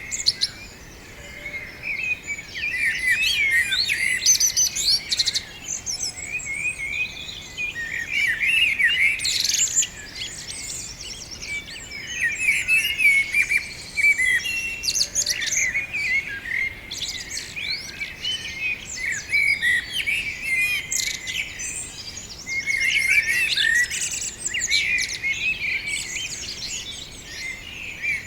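Several small songbirds chirping and twittering in overlapping runs of quick, high chirps, coming in bouts of a few seconds with brief lulls between.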